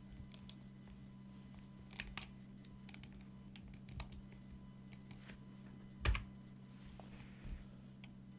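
Scattered clicks and taps of typing on a computer keyboard, the loudest about six seconds in, over a steady low hum.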